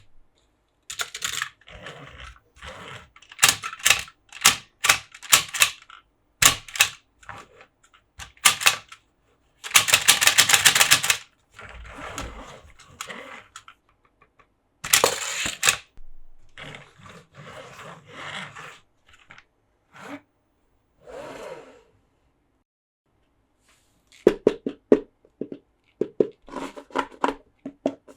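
Hand handling of plastic toys and packaging: a string of separate clicks, knocks and scrapes, with a fast rattling burst about ten seconds in and another short burst about fifteen seconds in. Lower-pitched knocks come near the end.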